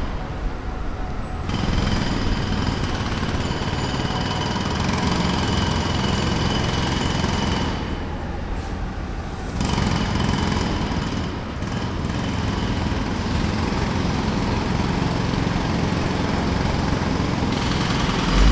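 Jackhammer breaking up pavement in long bouts: it starts about a second and a half in, stops for about two seconds near the middle, then carries on. A steady low engine hum runs underneath throughout.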